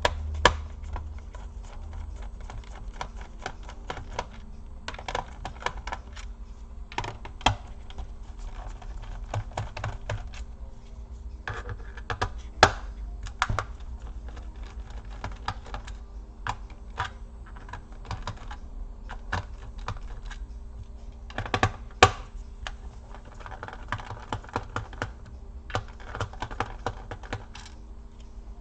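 Screwdriver backing out the small screws on a laptop's plastic bottom case one by one, with irregular small clicks and taps as screws and bit touch the plastic. A steady low hum lies underneath.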